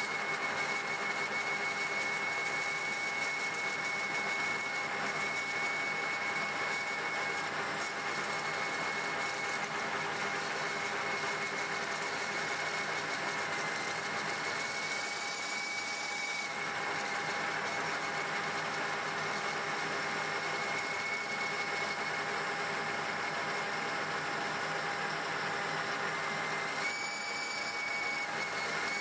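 Metal lathe running steadily while boring out a bicycle hub's bearing housing to a press fit for the bearing, a constant whine over the cutting noise that shifts slightly near the end.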